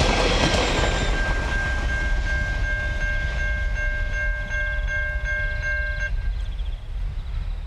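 Level crossing warning bell ringing with a fast, even beat, about three rings a second, and cutting off about six seconds in. Under it runs the low rumble of the empty ballast train rolling away from the crossing.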